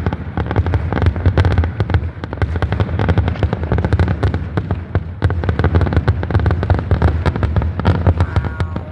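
Aerial fireworks display in a dense, continuous barrage of bursts: many bangs a second over a steady low rumble of booms.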